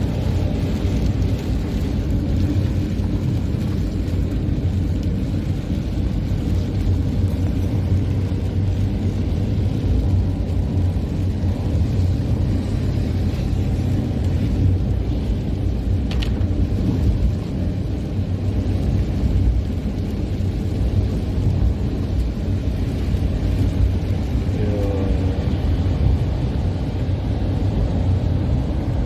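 Steady low rumble of a car driving, engine and road noise, with a single short click about halfway through.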